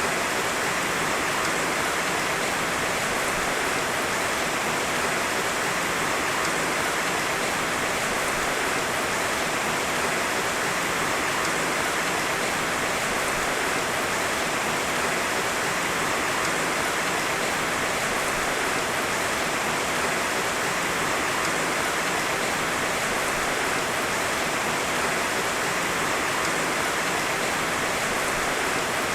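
Heavy rain falling steadily, a dense unbroken hiss with no thunder.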